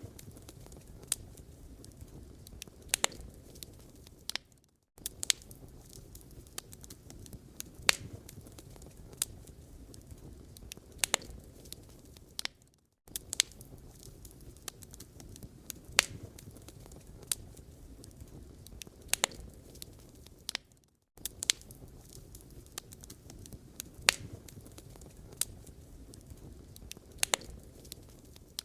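Wood fire in a fireplace crackling, with irregular sharp pops and snaps over a steady low rumble of burning. The sound cuts out to silence for a moment three times, about every eight seconds.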